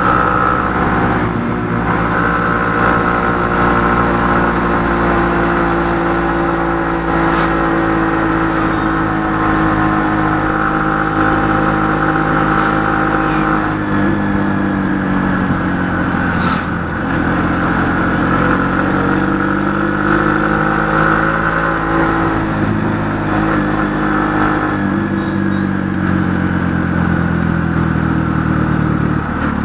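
A vehicle engine running steadily, its pitch dipping and rising again several times as the engine speed changes.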